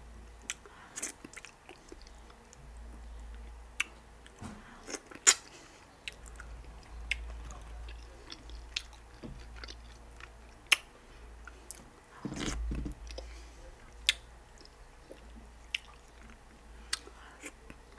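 Close-miked chewing and wet mouth smacks of someone eating slimy okra pepper soup by hand, with scattered sharp clicks throughout and a longer squelchy stretch about two-thirds of the way in.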